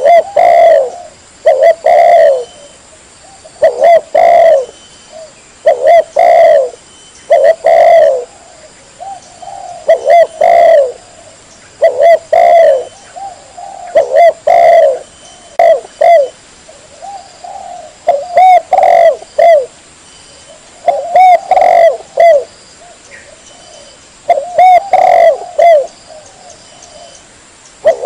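Spotted dove (tekukur) cooing over and over, in short phrases of two or three coos that come about every two seconds.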